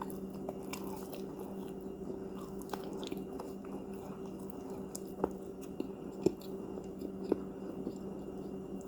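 Close-up chewing of crunchy cookies: scattered crisp crunches, a few sharper ones near the end, over a steady low hum.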